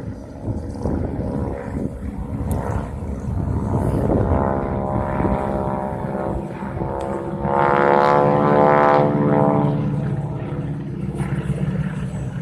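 Formation of Stearman biplanes flying by, their radial engines running with a steady propeller drone that swells to its loudest about eight seconds in as the planes pass close, then eases off.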